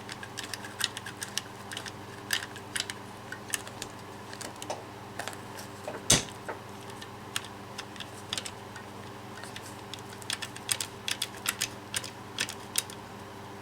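Irregular sharp clicks and taps of a hand caulking gun being worked, its trigger and push rod pressing a metal connector into a heat-softened 5/16 nylon fuel line, with one louder knock about six seconds in. A faint steady hum lies underneath.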